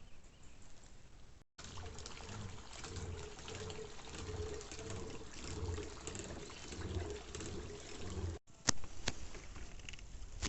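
Water trickling and splashing with a regular pulse about every two-thirds of a second. It breaks off suddenly and is followed by a few sharp knocks.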